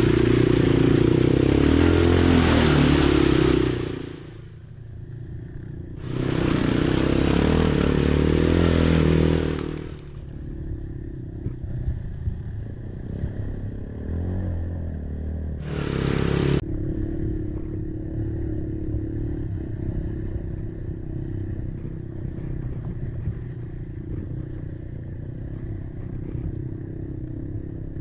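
Kymco Maxxer 300 quad's engine revved hard in two long bursts of about four seconds each, dropping back in between, then running at low throttle with a brief rev about sixteen seconds in.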